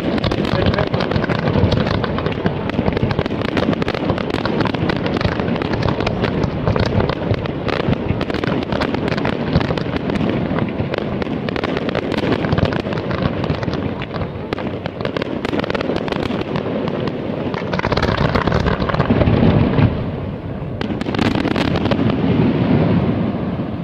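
Fireworks display in full barrage: many shell bursts and rapid crackling pops overlapping continuously. It grows to its loudest about nineteen seconds in, drops briefly, then picks up again.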